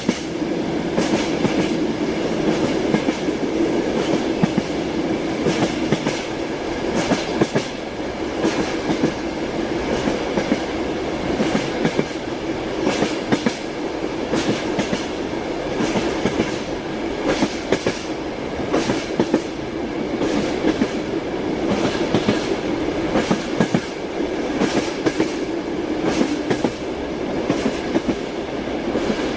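Passenger train running, wheels clacking over rail joints at irregular intervals over a steady rumble and hum.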